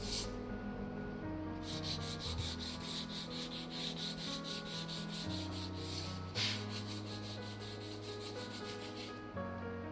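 Hand wet-sanding of a rusted steel fridge door with fine emery paper: quick, rhythmic rubbing strokes that stop for the first second and a half and again near the end. Soft background music with sustained low notes plays underneath.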